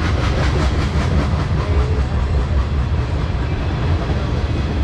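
Freight train of tank cars rolling past close by: a steady low rumble of steel wheels on rail, with a quick run of wheel clicks over rail joints during the first second and a half.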